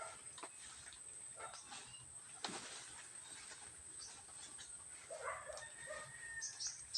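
Scattered rustling and light clicks, with a short animal call about five seconds in.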